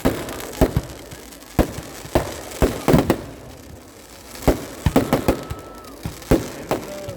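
Festival fireworks (vedikkettu) going off: sharp, irregular bangs about one every half second to a second, some in quick pairs.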